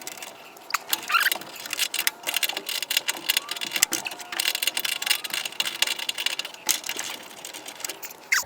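Metal tools clinking and rattling in a quick, irregular clatter, as someone rummages for a 10 mm tool.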